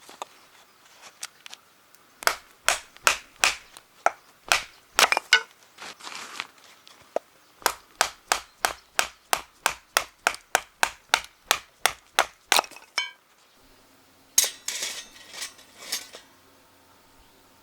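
A run of sharp knocks, like something being struck hard and repeatedly: about two a second for a few seconds, then after a pause a faster steady run of about three a second lasting some five seconds. A short scraping rustle follows near the end.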